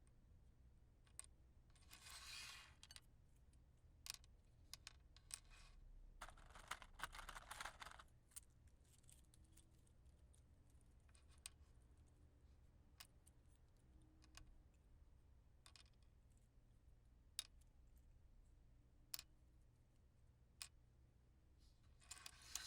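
Wooden matches being handled, lit and put out: many faint sharp taps and clicks, with three short rushes of hiss. One comes about two seconds in, a longer one runs from about six to eight seconds, and the last starts near the end.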